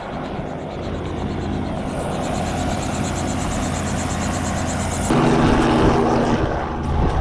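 Helicopter running close by, a steady rotor and turbine sound with a fast regular pulsing, abruptly louder and fuller about five seconds in.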